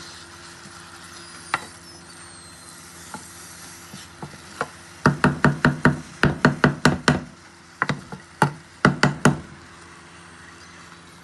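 Sharp knocks in a kitchen. A few come singly, then two quick runs follow, about five a second: some ten strikes, a short pause, then about seven more.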